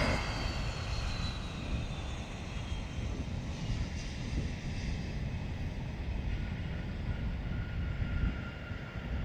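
Jet airliner engines whining over a low rumble. The whine falls in pitch over the first few seconds, and a steadier tone comes in about six seconds in.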